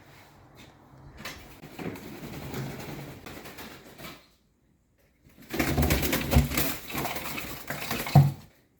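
A trapped magpie panicking indoors, flapping its wings hard in two bursts of about three seconds each, with rapid rustling and knocks as it hits things, and one loud thump near the end.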